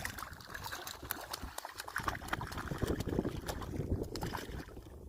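Water splashing and sloshing, with many irregular small knocks and clicks.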